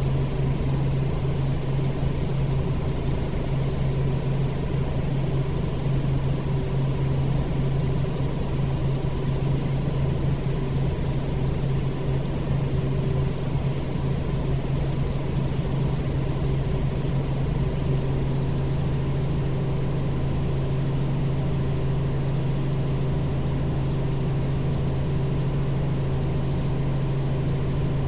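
Robinson R44 helicopter running steadily, heard from inside the cabin: a constant drone of the rotors and its six-cylinder Lycoming piston engine, with a strong low hum and fainter steady higher tones.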